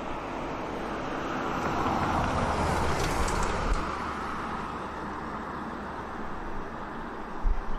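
A rushing noise that swells to a peak about three seconds in and then fades away, with low wind buffeting on the microphone starting near the end.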